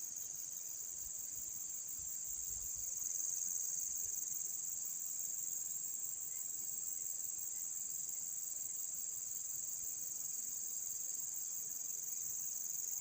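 Steady, high-pitched chorus of crickets.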